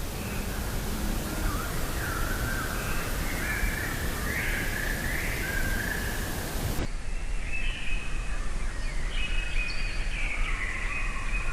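Birds calling repeatedly over a hissy background; about seven seconds in the recording changes and the hiss drops away while the calls go on.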